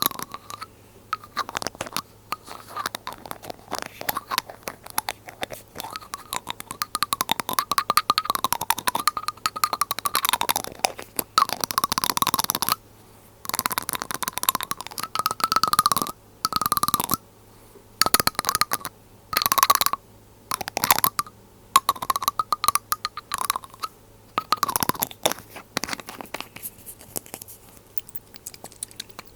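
Glass dropper bottle handled close to the microphone: dense, rapid clicking and tapping in stretches of a second or two, with liquid tones that rise and fall in pitch.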